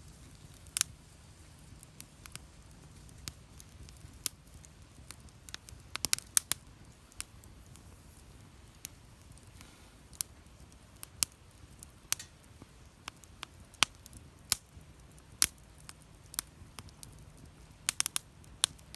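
Wood fire crackling in a fire stand, with irregular sharp pops and snaps. The pops come in quick clusters about six seconds in and again near the end.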